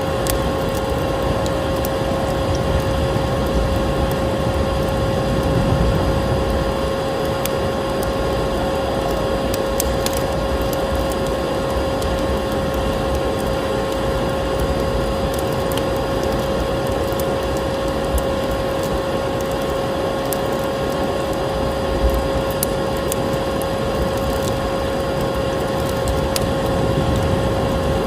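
Electric vacuum cleaner running steadily with a constant motor whine, mixed with the scattered crackles and pops of a wood fire burning in a fireplace.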